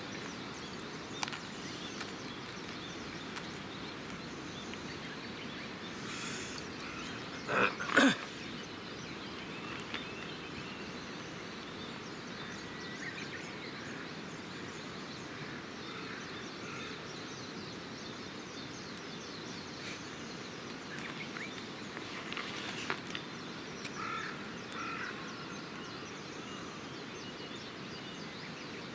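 Campfire burning with scattered sharp crackles and pops over a steady outdoor background hiss, and a louder double pop about eight seconds in. Faint bird chirps come through in the second half.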